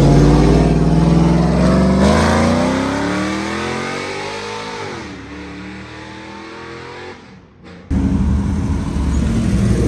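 A car accelerating hard away, its engine pitch climbing as it fades into the distance, with a brief drop in pitch about five seconds in. About eight seconds in it cuts suddenly to another loud engine close by.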